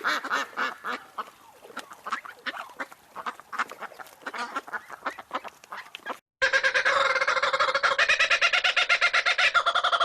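Ducks quacking in a quick, uneven series of calls for about six seconds. After a short break, a flock of farm poultry starts calling in a dense, steady chorus.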